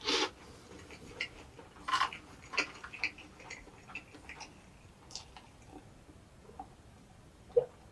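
Close-miked eating of an egg drop toast: wet mouth clicks and lip smacks while chewing, with louder bursts at the start and about two seconds in.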